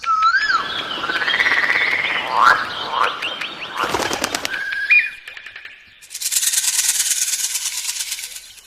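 Birds calling: whistled notes that rise and fall over a rapid rattling call, a short level whistle about five seconds in, then a dry, high, rapid buzzing trill for about two seconds near the end.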